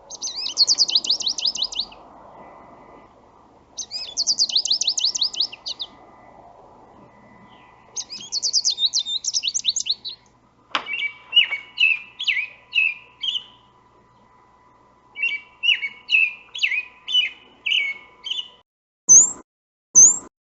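Recorded songbird songs: a rapid high trill lasting about two seconds, repeated three times, then a varied series of shorter warbled phrases, then a few short rising notes near the end.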